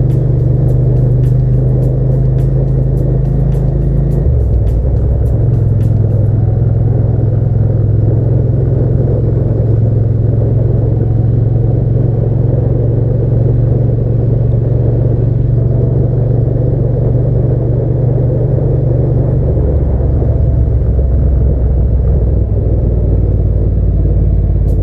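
Hyosung GT650's V-twin engine running at a steady cruise with wind and road noise, a low drone whose note shifts about four seconds in and again around twenty seconds, as the throttle or gear changes.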